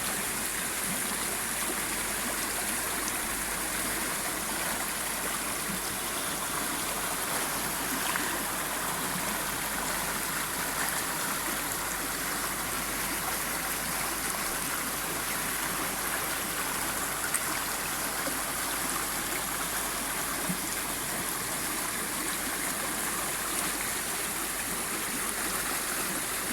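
Shallow stream babbling: a steady, even rush of running water with no pauses.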